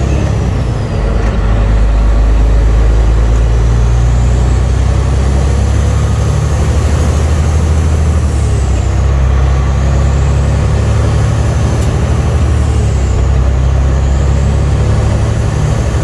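Semi truck's diesel engine droning steadily at highway cruising speed, with a faint high whine that slowly rises and falls.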